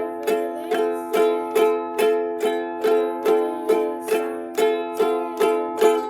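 Ukulele strumming one chord over and over in an even rhythm, a little over two strokes a second.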